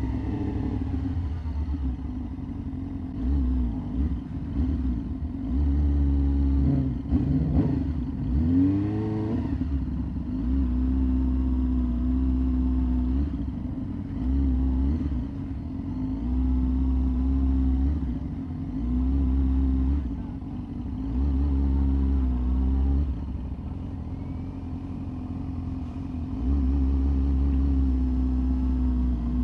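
Yamaha R6 inline-four sport bike engine running at low revs while riding slowly. It comes on and off the throttle every few seconds, with quick rising and falling revs about seven to nine seconds in.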